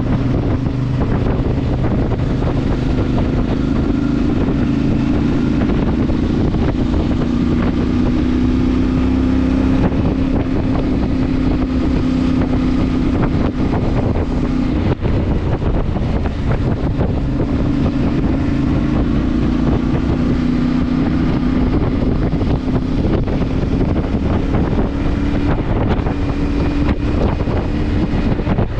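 CFMoto motorcycle engine running at a steady cruise, its pitch drifting slightly up and down, with wind buffeting the microphone.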